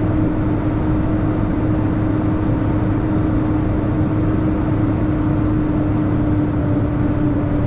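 Diesel engine of a 2000 Freightliner FLD 112 semi-truck running steadily while driving. It is a continuous low rumble with a steady hum that sinks slightly in pitch.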